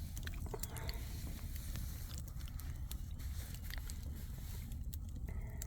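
Wood campfire crackling: scattered sharp pops and snaps over a steady low rumble.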